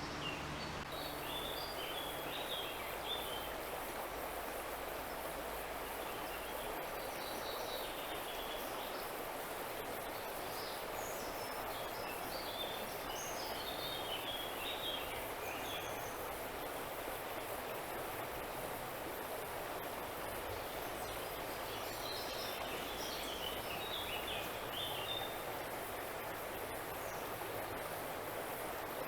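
Steady rush of river water, with a small songbird's quick, high chirping phrases coming in short spells four times over it.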